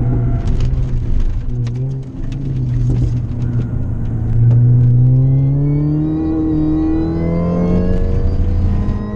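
Stock Mini Cooper S R53's supercharged 1.6-litre four-cylinder engine heard from inside the cabin, accelerating hard. The engine note dips briefly about two seconds in, then rises steadily for several seconds, drops back about seven seconds in as it changes up a gear, and climbs again. A few faint clicks come in the first few seconds.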